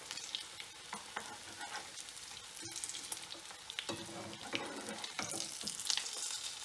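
Egg-coated chicken shami tikki shallow-frying in hot oil in a pan: a steady crackling sizzle, with scrapes and light clicks of a metal slotted spatula and fork as the patties are turned.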